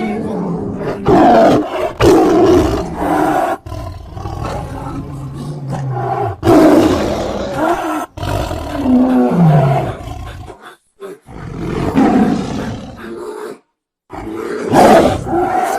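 Cartoon grizzly bear character's roars and growls, film sound effects built from bear and big-cat recordings, playing as a string of separate loud calls, some sliding down in pitch. Two brief silent gaps fall between clips in the second half.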